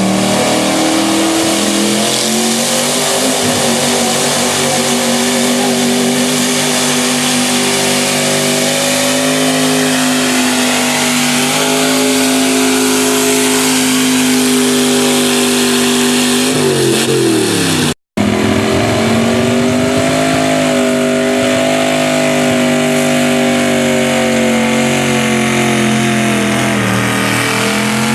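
Modified 4x4 pickup truck engine held at high revs under heavy load, pulling hard with a steady pitch that sags as it bogs. The sound cuts out for an instant about two-thirds through, then the engine is back at full revs and bogs down again near the end.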